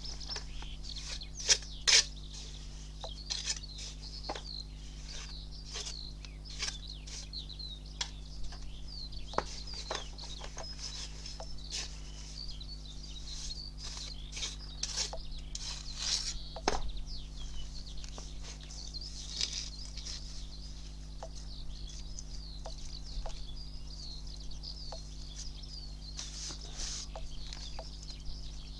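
Small birds chirping continuously, over scattered sharp taps and scrapes of a trowel working lime mortar into a stone wall, with a steady low hum underneath.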